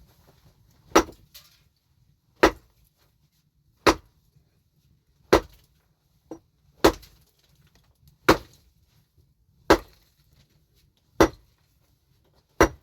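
Heavy hand tool striking hard material in steady chopping blows: nine strikes about one and a half seconds apart.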